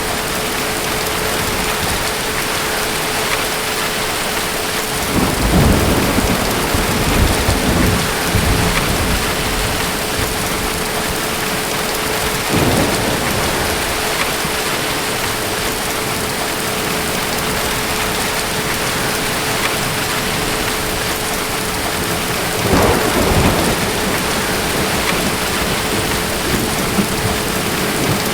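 Steady heavy rain with thunder rumbling three times: a long rumble about five seconds in, a shorter one around twelve seconds, and another shortly after twenty-two seconds.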